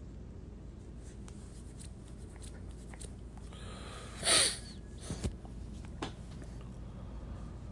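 Steady low room hum with scattered faint clicks, and one short loud breathy noise from a person about four seconds in, followed by a few sharper clicks.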